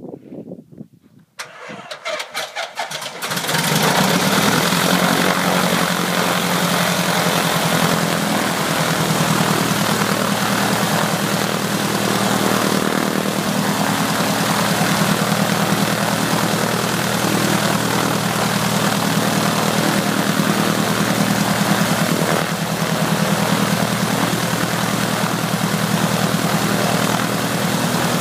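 Ercoupe's piston aircraft engine turned over by its starter in a quick series of beats, catching about three seconds in. It then runs steadily at idle with the propeller turning.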